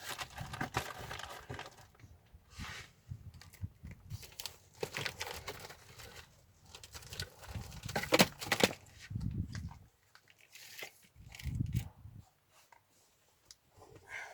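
Irregular crinkling and tearing of material being handled, with scattered clicks and two low thuds in the second half.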